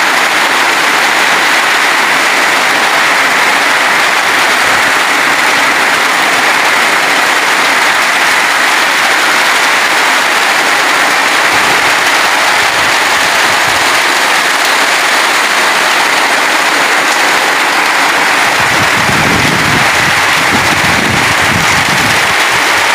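Heavy rain pouring down in a steady, loud roar, drumming on a zinc sheet roof. A deeper rumble swells in near the end.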